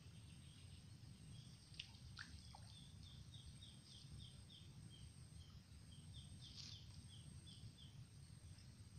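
Faint outdoor quiet with a low rumble, and a bird giving a quick run of short falling chirps, a few a second, through the middle.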